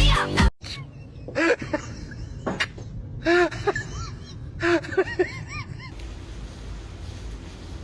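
Pet parrot giving a few clusters of short chirps and whistled notes, each bending up and down in pitch. Music cuts off about half a second in, and a steady faint hiss takes over near the end.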